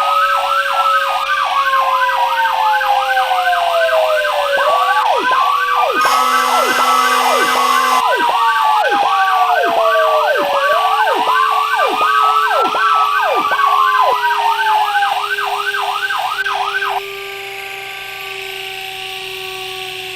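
Fire engine sirens sounding together: a fast yelp, about three sweeps a second, over a slower wail that rises and falls every few seconds. A horn blast of about two seconds sounds around six seconds in. The sirens cut off about seventeen seconds in, leaving a quieter steady vehicle sound.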